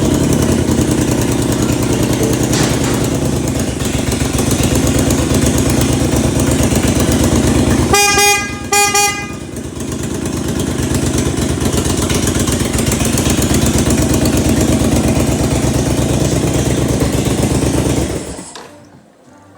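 Honda VT1300CX Fury's V-twin engine idling steadily, with two short beeps of the horn about eight seconds in. The engine is shut off near the end.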